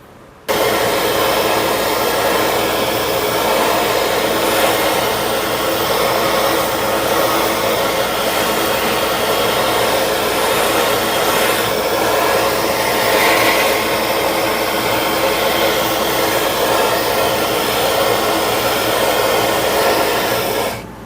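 Electric heat gun blowing hot air steadily, warming the steel hammer head before boiled linseed oil is applied, then switched off just before the end.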